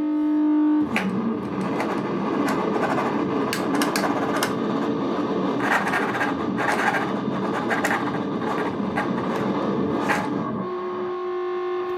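Harsh electronic noise from a pineapple-can noise instrument run through a Joyo Ultimate Drive and a Behringer Super Fuzz, sounding with no input played into it. It starts as a steady droning tone, breaks about a second in into dense, crackling distorted noise, and settles back into a steady, slightly higher drone near the end.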